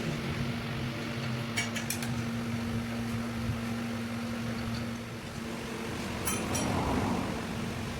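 A steady machine hum with a few light metallic clinks, likely tools or gear parts being handled, about two seconds in and again near six and a half seconds. The hum fades about five seconds in and a rougher rushing noise swells near seven seconds.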